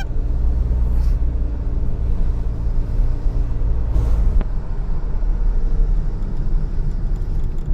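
Car engine running steadily with heavy road rumble as the car drives up a steep hill.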